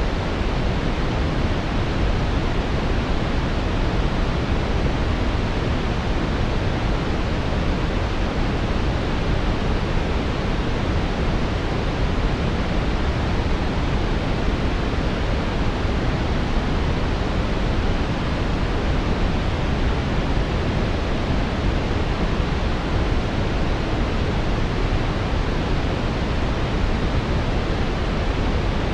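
Steady brown noise: a deep, even hiss, strongest in the lows and falling off toward the highs, with no changes or events.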